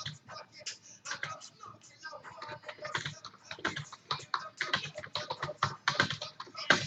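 Typing on a computer keyboard: irregular runs of quick keystroke clicks with short pauses.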